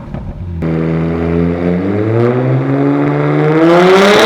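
Car engine accelerating hard, its pitch climbing steadily and growing louder over a few seconds, cutting in abruptly about half a second in.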